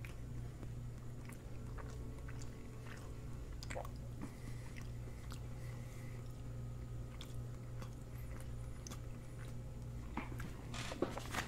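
A person chewing a mouthful of panko-crusted chicken with the mouth closed: faint, scattered mouth clicks over a steady low hum.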